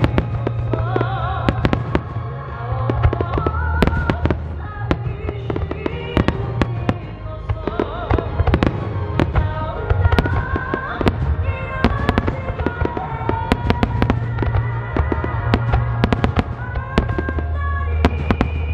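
Aerial fireworks shells bursting in a dense, rapid sequence, many sharp bangs and crackles a second, over loud music with sustained notes and a heavy bass.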